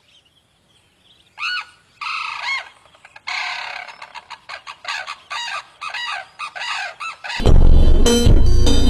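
A bird calling: a couple of longer arched calls, then a quick run of short, repeated arched notes. Music comes in near the end.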